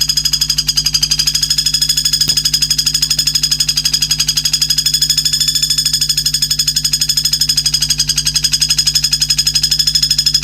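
A continuous, rapid, even trill on a steady high pitch, played from a songbird tutor (masteran) recording, over a steady low hum. It cuts off suddenly just after the end.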